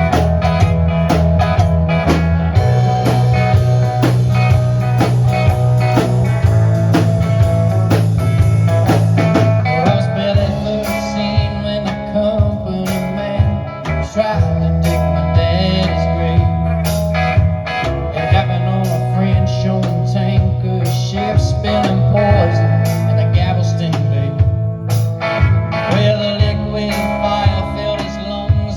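A live band playing a blues-rock song, with guitar, bass and drums keeping a steady beat, and singing.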